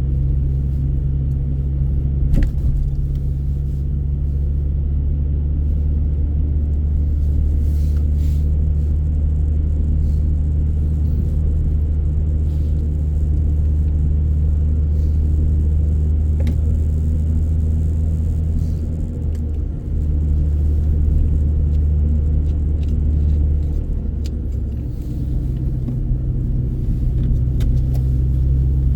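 Steady low rumble of a car on the move, with road and engine drone heard from inside the cabin and a few faint clicks.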